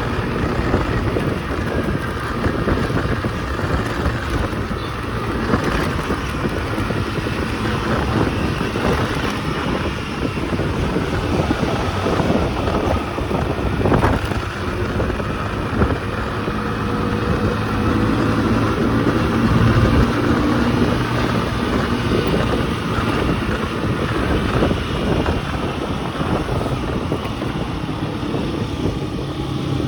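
A small motorcycle's engine running while riding, its pitch shifting with the throttle, over steady wind rush on the microphone.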